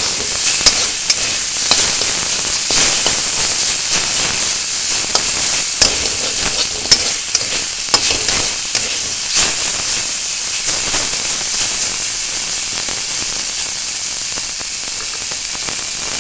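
Neem flowers with potato and brinjal sizzling as they fry in a wok. A metal spatula scrapes and clacks against the pan many times, mostly in the first ten seconds, and after that only the steady sizzle goes on.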